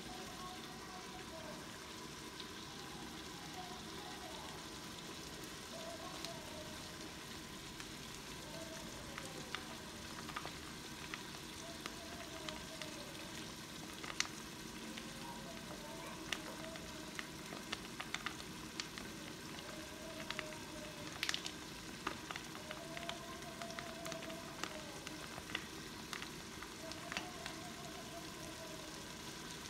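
Onion and tomato curry masala sizzling in an aluminium pressure cooker pot: a steady frying hiss with scattered sharp pops and crackles, which come more often in the second half.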